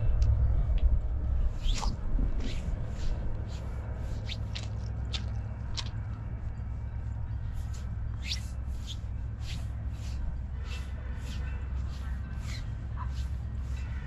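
Small birds chirping over and over, short sharp calls, some falling in pitch, over a steady low rumble.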